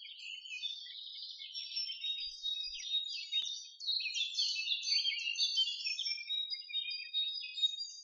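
Songbirds singing: a dense, continuous run of high chirps, twitters and short trills that grows louder about four seconds in.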